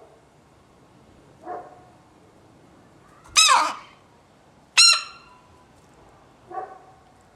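Bird squawking: four short, high calls, the middle two loud and sharp about a second and a half apart, the first and last softer.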